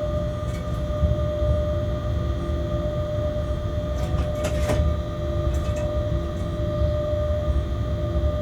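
Freight train heard from the locomotive cab while running: a steady low rumble with a constant whine, and a few sharp clicks about four to five seconds in.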